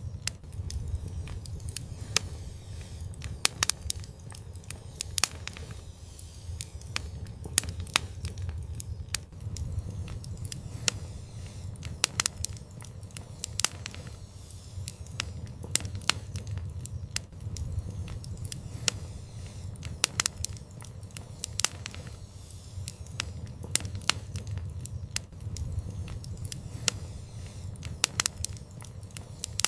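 Wood fire burning in an outdoor fireplace: sharp, irregular crackles and pops over a steady low rumble of the flames.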